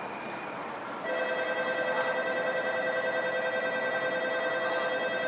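Shinkansen platform departure bell starting about a second in and ringing steadily as an electronic trill, signalling that the train is about to leave.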